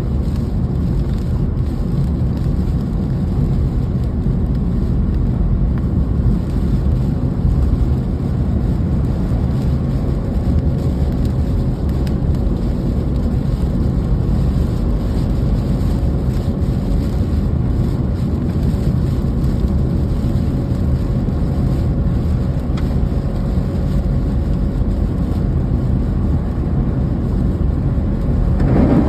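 Rain falling, heard as a steady low rumbling noise, with a faint steady hum running through it.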